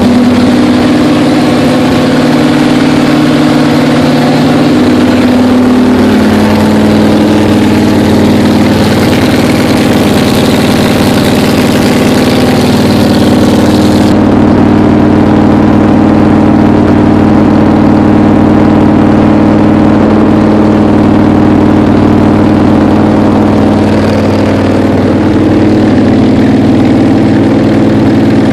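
1966 Plymouth Valiant V100's engine running steadily during its break-in run, its pitch dipping slightly about five seconds in. A high hiss over it cuts off suddenly about halfway through.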